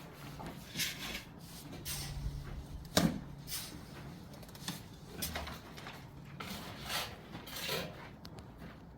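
Trowel working mortar or plaster: irregular scraping strokes, with one sharp knock about three seconds in.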